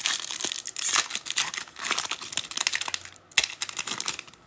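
Foil trading-card pack wrapper crinkling and tearing as it is ripped open, a dense crackle that thins out near the end.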